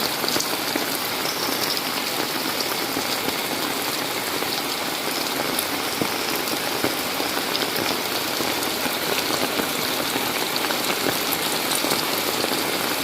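Heavy tropical rain pouring down steadily, a dense, even hiss of falling water.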